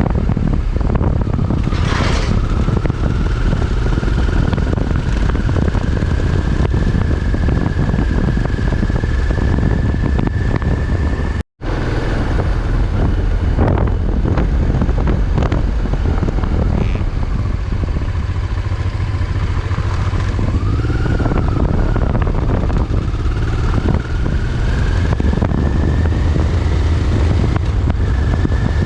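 Motorcycle ridden on the road, heard from on board: the engine runs under heavy wind noise on the microphone, with a thin tone that slowly rises and dips as speed changes. The sound cuts out for an instant about eleven seconds in.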